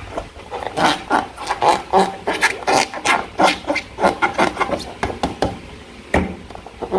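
Slime being squished and worked by hand: a quick, irregular run of small sticky clicks and squelches, several a second, with a louder smack near the end.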